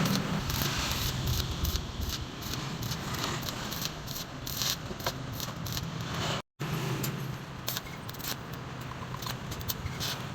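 Metal parts clinking and scraping in short irregular ticks over a steady low hum, broken once by a brief gap about six seconds in.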